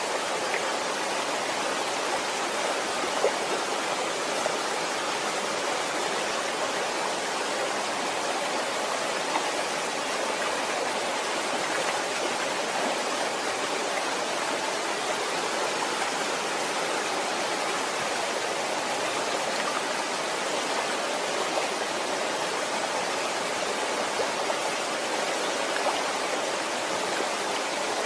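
Waterfall: water falling and rushing in a steady, even roar, with a few faint splashes standing out now and then.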